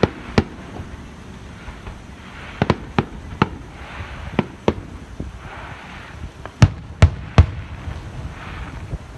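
Aerial firework shells bursting overhead: about a dozen sharp bangs at irregular intervals, the loudest three in quick succession about two-thirds of the way in.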